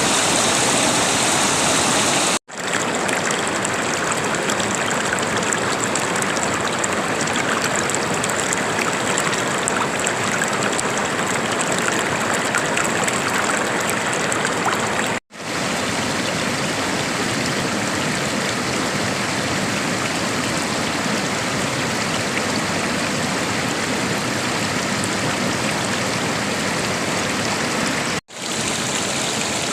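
River water flowing in a steady rush, broken by three momentary silent drops where the recording cuts.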